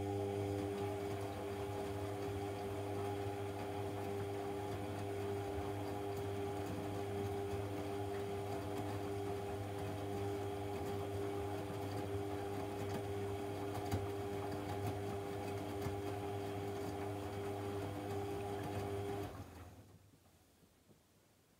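AEG Lavamat 1400 washing machine running with a steady electric hum and a few steady tones over a light hiss, which dies away about nineteen seconds in.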